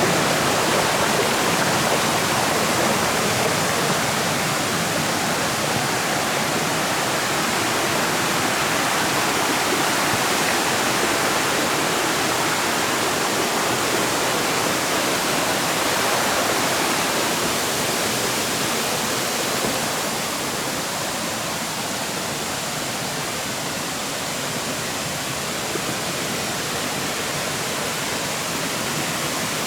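Shallow river water rushing over stones and around tree roots, a steady, unbroken rush that grows a little quieter about two-thirds of the way through.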